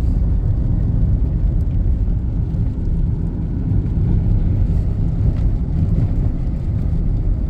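Steady low road noise inside a moving car: tyres on wet pavement and the engine.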